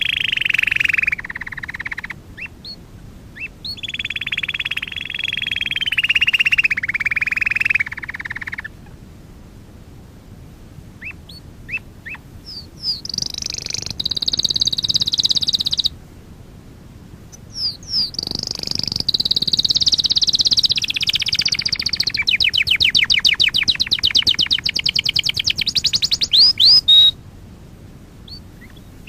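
Domestic canary singing: long rolling trills and warbled phrases separated by short pauses, ending in a fast, rapid trill of repeated notes that cuts off abruptly.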